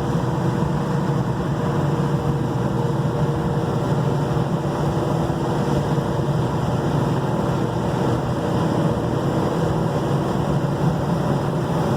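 A 1969 Dodge Charger's 440 big-block V8 running steadily at cruise, heard from inside the car, mixed with road and wind noise.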